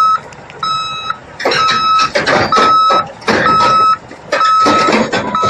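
A heavy farm machine's reversing alarm beeping about once a second as it backs up, with its engine and working noise rising loud from about a second and a half in.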